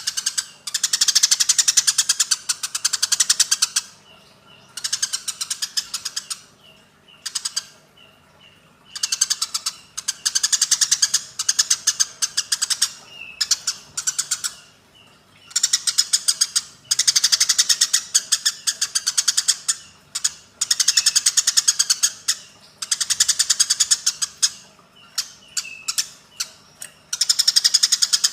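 Eurasian tree sparrows chattering in a fight: bursts of very rapid chirps a couple of seconds long, repeated about every three to four seconds, with single chirps between them.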